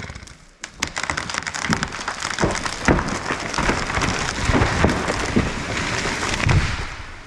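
A felled spruce tree crashing down just after the chainsaw stops: a dense crackle of snapping limbs and branches for several seconds, with a heavy low thud near the end.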